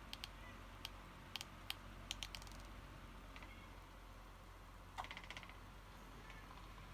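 Scattered small, sharp plastic clicks and taps from working a hot glue gun over a cracked plastic enclosure box, with a short quick run of ticks about five seconds in, over a faint steady hum.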